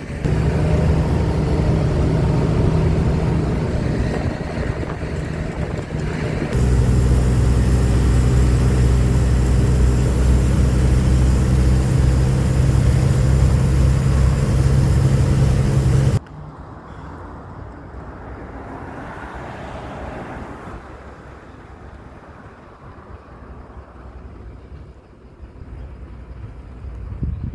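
Heavy truck engine running steadily under load with a deep, even hum. It cuts off abruptly about six seconds in and again just past halfway, where it gives way to much quieter road noise that swells briefly as if a vehicle is passing.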